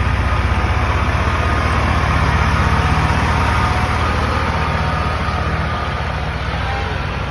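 Tractor engine running with a low, even firing beat, getting quieter over the last couple of seconds as it moves off.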